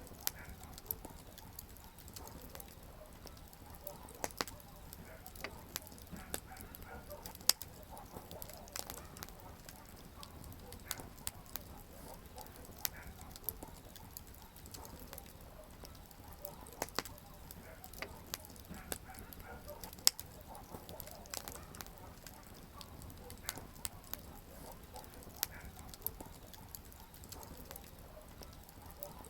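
Wood campfire burning, with irregular crackles and pops of the burning firewood over a low, steady hiss. Two pops stand out sharply, about a third of the way in and again about two-thirds of the way in.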